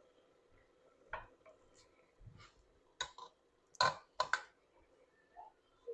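Several separate sharp clinks of kitchen utensils against pots and dishes, the loudest two in quick succession about four seconds in.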